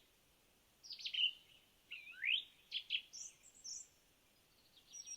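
Birds chirping and singing: a series of short, high calls and brief trills, with one rising sweep about two seconds in.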